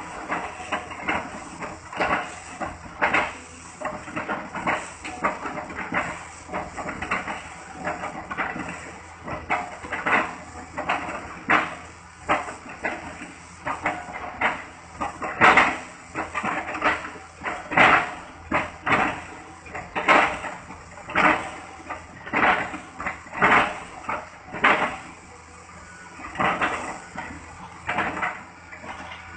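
Excavator chipping old palm trunks: repeated irregular chopping and crunching strikes, about one to two a second, over the steady running of the diesel engine.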